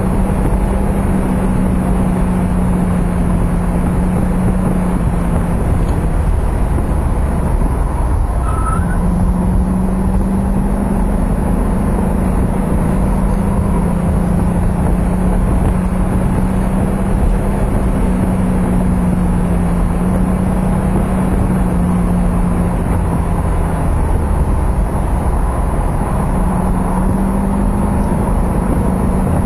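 Mercedes-Benz 560SL's V8 engine running at a steady cruise, with road and wind noise, heard from inside the car. The engine note drops away briefly about eight seconds in, then comes back.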